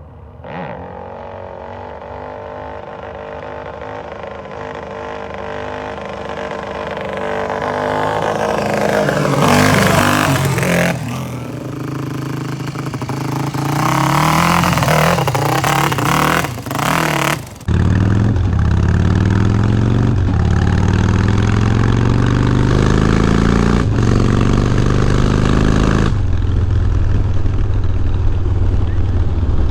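Motorcycle engine accelerating hard, its pitch climbing and dropping as it works up through the gears. About eighteen seconds in the sound changes abruptly to a steadier, deeper engine note.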